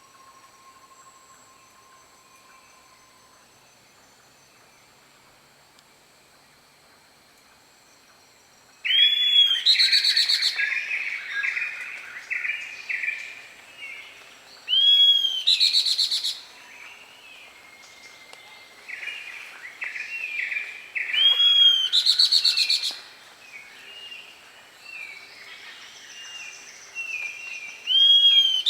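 A bird calls loudly in a phrase repeated four times, about every six seconds. Each phrase is a rising-and-falling note followed by a quick run of shorter notes. For the first nine seconds only faint, steady high tones are heard.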